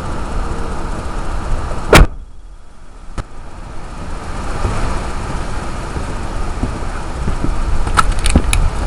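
Ford 7.3 L Power Stroke turbo-diesel V8 in a 1997 F-250 running, with a loud sharp knock about two seconds in, after which the sound drops for about a second and then builds back up. A few sharp clicks come near the end.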